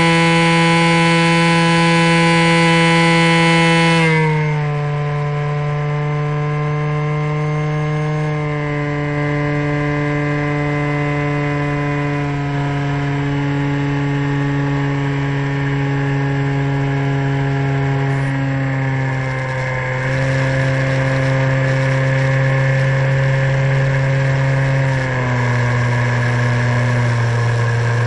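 Electric motor and propeller of an ST Models Cessna 182 RC plane heard from on board: a steady whine whose pitch drops about four seconds in as the motor slows. The pitch then shifts slightly several times, dips and rises again near twenty seconds, and steps down once more near the end.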